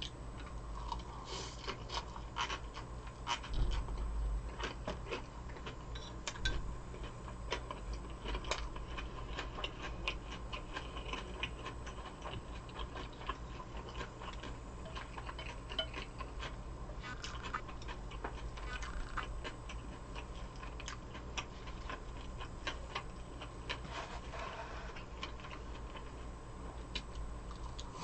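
Close-up eating sounds: chewing with quick, irregular wet mouth clicks and smacks, over a low steady hum.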